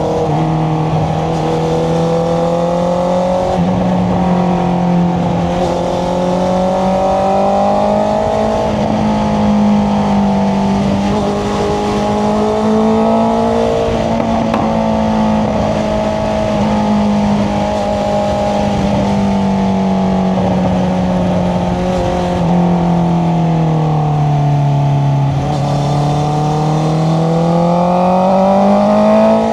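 Honda CBR650R inline-four engine running through an Akrapovic exhaust while riding at fairly steady revs. The revs drop about three-quarters of the way through and climb again near the end, with a rush of wind noise underneath.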